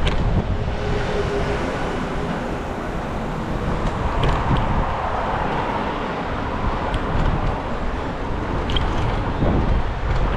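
Wind buffeting the microphone of a camera riding on a moving bicycle: a steady low rumble over a broad hiss of rushing air and road noise, swelling a little around the middle, with a few faint ticks.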